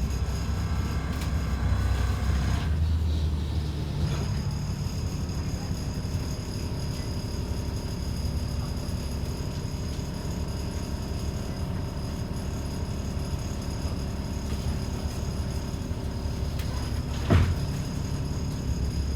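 ADL Enviro 400 double-decker bus running, heard from on board: a steady low engine rumble with a constant high-pitched whine above it. One short, sharp sound about 17 seconds in is the loudest thing.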